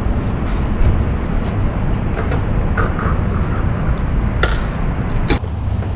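Harley-Davidson Road Glide motorcycle riding at road speed: a steady low rumble of engine and wind. Two sharp clicks come about four and a half and five and a half seconds in.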